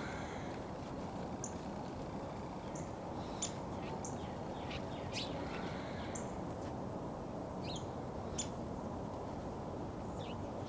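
Small birds calling with scattered short, high chirps, some slurring downward, over a steady outdoor hiss.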